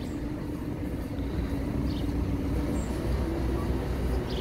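Slow engineering train of flat wagons carrying rail-mounted machinery rolling past, with a steady low rumble and a droning engine hum.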